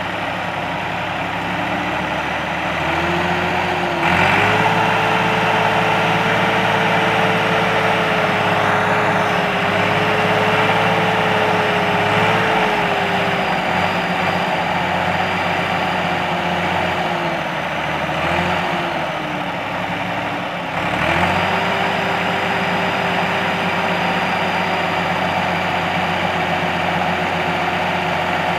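Tractor diesel engine running hard and steady. The revs climb about four seconds in, sag between about seventeen and twenty seconds, then pick up again just after twenty-one seconds.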